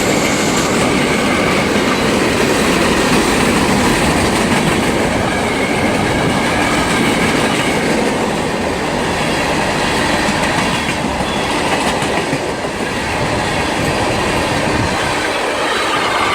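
CSX freight train of loaded gravel hopper cars rolling steadily past close by, the wheels running loud and even on the rails.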